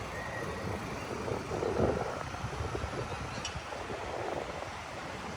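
City street ambience: a steady wash of traffic noise with a low rumble.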